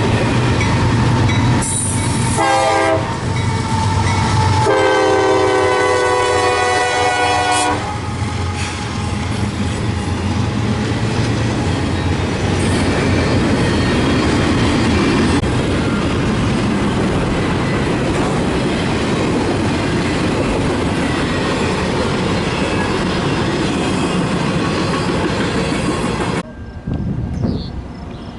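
Locomotive horn sounding a short chord blast about two seconds in, then a longer blast of about three seconds, over the steady rumble and clatter of a passing train. The train noise drops away sharply near the end.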